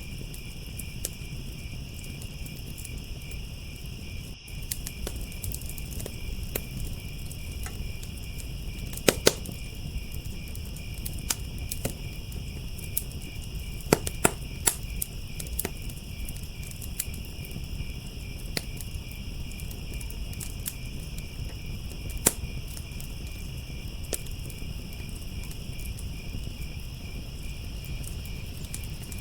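Crickets chirping in a steady pulsing chorus over a crackling firepit fire, its pops and snaps coming every second or so, with a few louder pops standing out, and a low steady rumble underneath.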